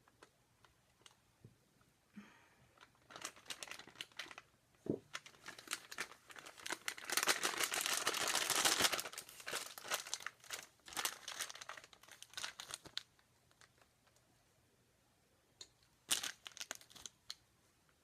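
Plastic piping bag of whipped soap crinkling and crackling as it is handled and squeezed, in bursts, densest in the middle.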